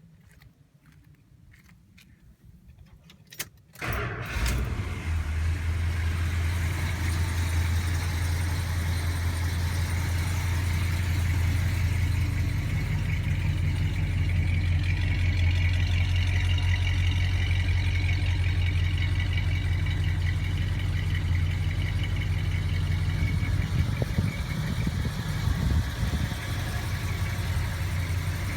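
A 1973 Chrysler Imperial's new 440 V8 with a four-barrel Holley carburettor being started: a few faint clicks, then the engine catches about four seconds in and settles into a steady idle.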